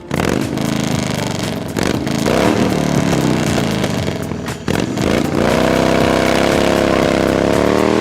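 Harley-Davidson FatBoy's V-twin engine under way, its pitch climbing and dropping several times as it revs, then rising and holding steady near the end.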